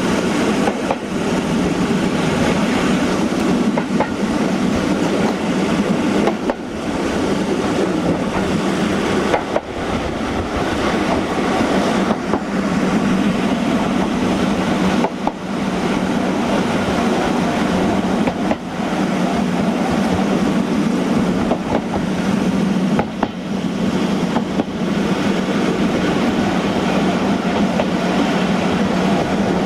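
Heritage train running steadily along the track, heard from the rear cab: a constant rumble of wheels on rails, with an occasional click over the rail joints.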